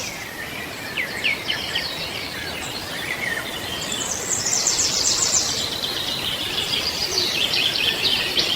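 Small birds chirping in rapid high trills and twitters over a steady outdoor hiss, with a few short falling whistled notes in the first few seconds.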